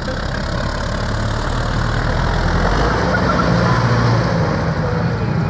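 Tractor engine running steadily, growing a little louder and shifting in pitch about halfway through, with a faint high whine that rises and falls.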